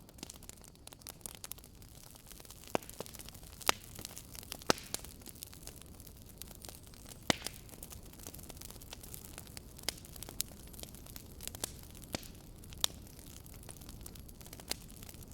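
Wood campfire crackling: irregular sharp pops and snaps over a steady low rush of burning, with a few much louder pops scattered through.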